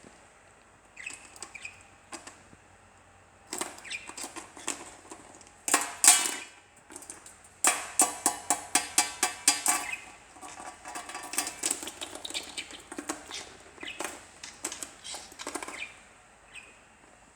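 Budgie pecking and clattering at a peg with its beak: irregular clicks and taps coming in quick runs, loudest in the middle, with some chirping mixed in.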